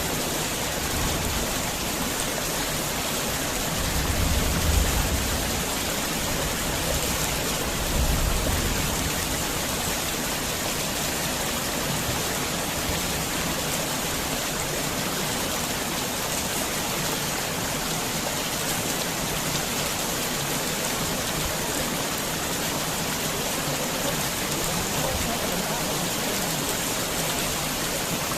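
Heavy rain pouring steadily at a garden house, a dense even hiss of drops. Two brief low rumbles swell up about four and eight seconds in.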